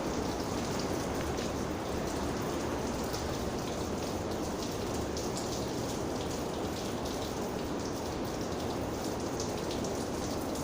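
Steady rain falling, with many separate drops hitting a surface at an even level throughout.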